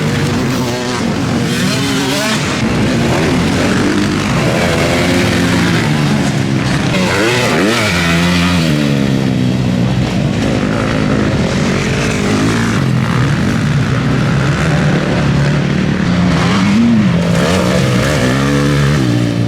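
Several motocross bikes racing, their engines revving hard and dropping back through the gears. The pitch rises and falls again and again, with overlapping engine notes as bikes pass.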